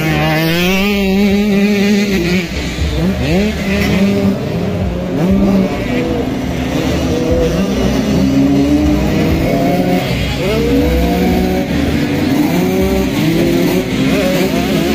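Several motocross bikes revving hard and overlapping, engine pitch climbing and dropping again and again as they accelerate and shift through the gears. One bike climbs steeply about a second in.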